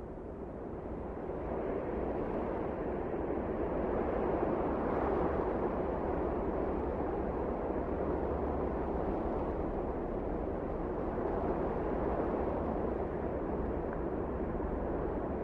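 Wind blowing as a steady, even rush, swelling over the first few seconds and then holding.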